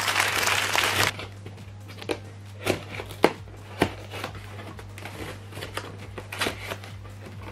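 A loud rushing noise cuts off about a second in. Then come a few sharp knocks and light rustling of a cardboard parcel and its packaging being handled, over a steady low hum.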